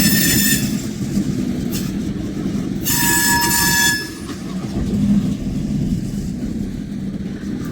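Freight train cars rolling past with a steady low rumble, and high-pitched steel wheel squeal that fades out about half a second in and comes back for about a second around the middle.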